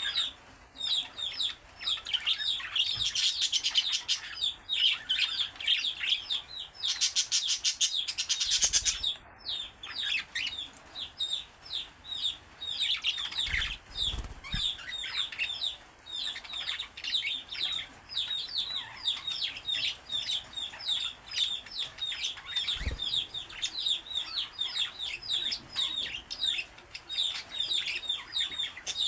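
Pet budgerigars warbling and chattering in a continuous stream of quick chirps, with a fast buzzing trill about seven to nine seconds in.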